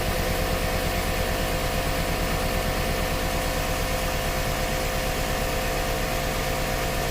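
A 5.7 L Hemi V8 in a 2008 Jeep Grand Cherokee idles with a steady, even pulse. It is running rough, misfiring on cylinders 4, 6 and 7, which have set MDS cylinder reactivation codes.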